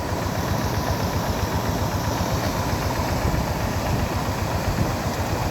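Rice-field tractor engine running steadily, with a fast even low pulsing from its firing.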